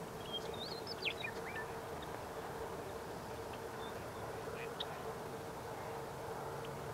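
A few short, high bird chirps and whistled notes, some gliding downward, cluster about a second in, and a single chirp comes near the end. Behind them is a steady low hum and a constant outdoor hiss.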